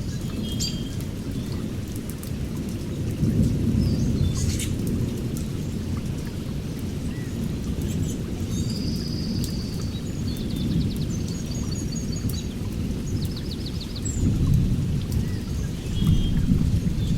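Heavy rain falling in a forest, with a deep, steady low rumble that swells a few times. Birds call over it: short chirps and several quick trills in the middle.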